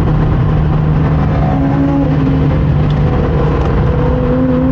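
Mazda RX-8's rotary engine running at steady revs, with a constant drone and a higher tone above it, over tyre and road noise.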